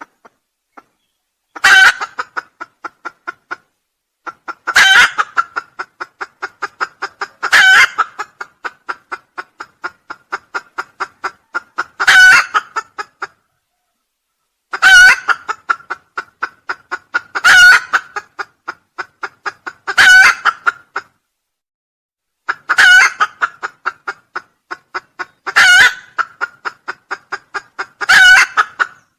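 Junglefowl crowing, repeated about ten times at even intervals of two to three seconds. Each crow is a sharp call trailed by a quick run of fading, evenly spaced repeats, like an echo. It is a looped call recording played as a lure for trapping wild junglefowl.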